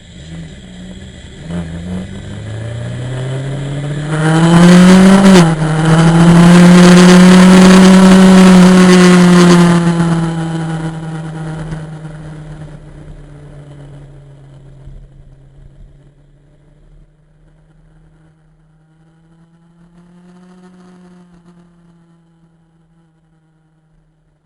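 Motorcycle engine revving up, its pitch climbing over the first few seconds, running very loud for several seconds, then slowly dying away. A fainter swell of engine sound comes about twenty seconds in.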